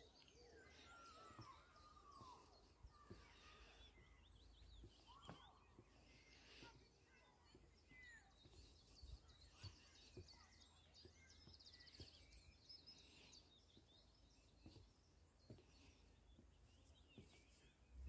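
Faint songbird chirps and trills, most of them in the first half, over quiet open-air background, with a few soft scattered knocks.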